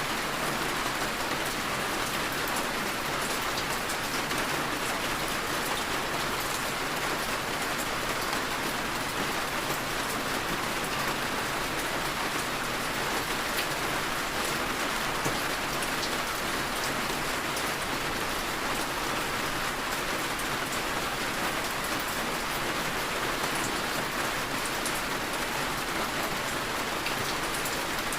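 Heavy rain falling steadily, an even hiss of rain on surfaces with fine drop ticks throughout.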